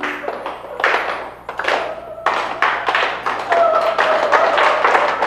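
Irregular taps and thuds over a noisy wash, with a faint held tone joining partway through, the whole slowly fading.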